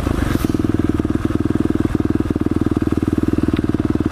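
Supermoto motorcycle engine running steadily at low revs, a fast, even exhaust beat with no revving.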